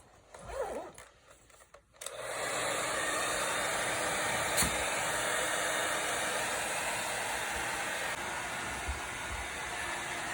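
A hair dryer switches on about two seconds in and runs steadily, an even blowing hiss.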